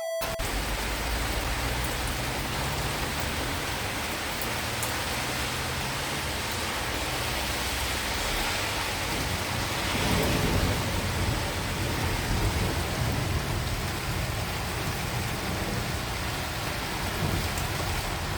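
Heavy rain falling steadily, with a low rumble underneath and a brief swell in loudness about ten seconds in.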